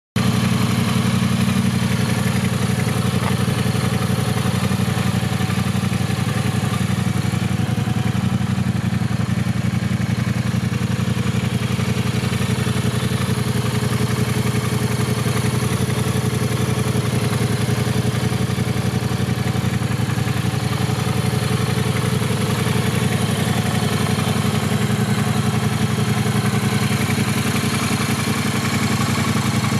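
Triumph Bonneville Speedmaster 1200's parallel-twin engine idling steadily, with no revving.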